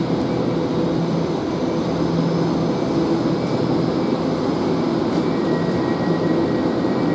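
TfL Rail Class 345 electric train running with a steady electrical hum made of several held low tones; a faint high whine joins about five seconds in.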